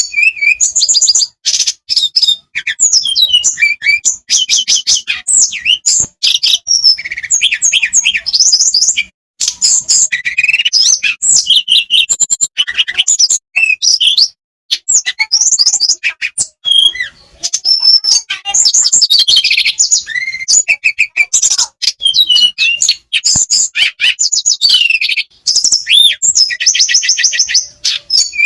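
Tledekan songbird singing without a break: fast, high trills and sweeping whistled notes in rapid runs, with only short pauses between phrases.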